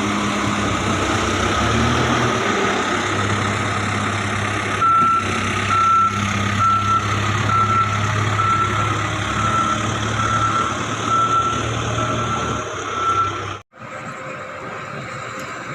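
A work vehicle's diesel engine running, with its reversing alarm beeping about once a second for several seconds while it backs up. Near the end the sound cuts out abruptly and comes back as a quieter engine hum.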